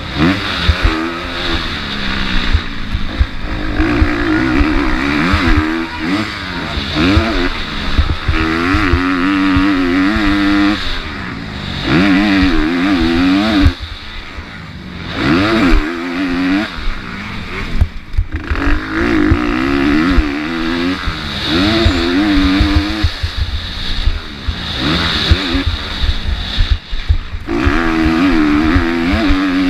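MX2 motocross bike's engine revving hard and falling off again and again as the rider accelerates, shifts and backs off around the track.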